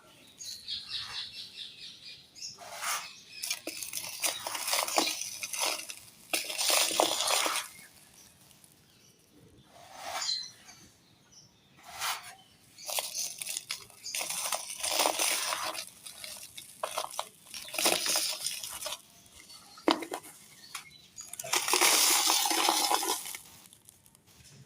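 Dry clay and dusty black sand being crushed and crumbled, a crunchy crackle of breaking clay in repeated bursts of a second or two with short pauses between, the longest and loudest burst near the end.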